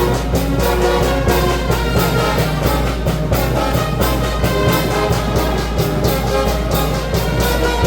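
Brass band playing a tune with held brass notes over a steady drum beat.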